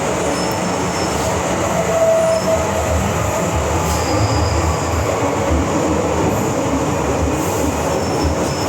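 MTR Island Line M-train heard from inside the car, running through the tunnel with a steady rumble and hiss of wheels and motors, and a few faint, brief squeals over it.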